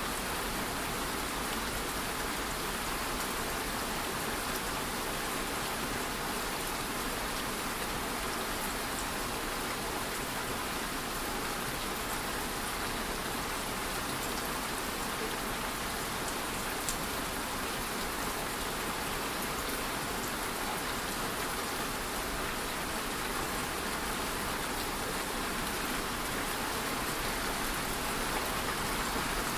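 Steady rain falling, an even hiss of drops on surfaces, with one faint click about halfway through.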